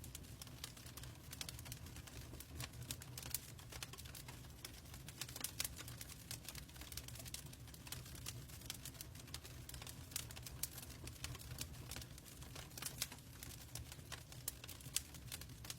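Burning wood crackling: many irregular sharp pops and snaps over a steady low rumble.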